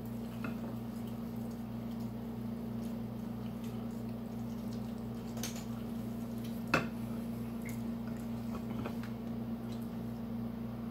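Faint chewing and wet mouth sounds over a steady low hum, with one sharp click about seven seconds in.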